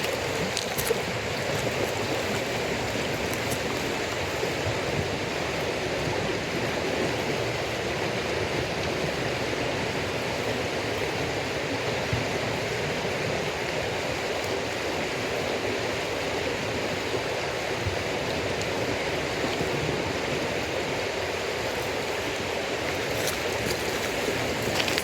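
A steady rushing noise like a stream runs under a damp-wood campfire, which gives a few faint crackles just after the start and again near the end.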